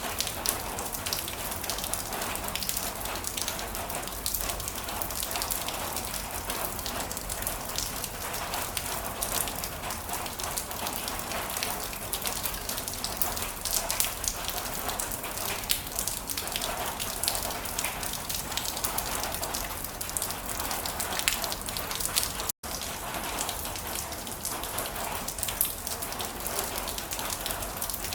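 Heavy rain falling steadily, a dense patter of drops striking a surface. The sound cuts out completely for an instant about three quarters of the way through.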